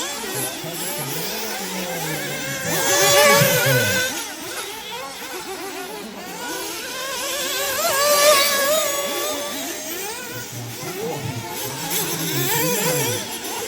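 Several 1/8-scale nitro off-road buggies' small two-stroke glow engines revving up and down as they race, their pitches rising, falling and overlapping. It swells loudest about three and eight seconds in, as cars pass close.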